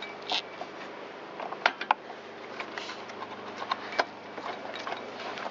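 Irregular light clicks and knocks of a hand tool and parts being handled while a backpack blower's spark plug is refitted and the machine is closed up.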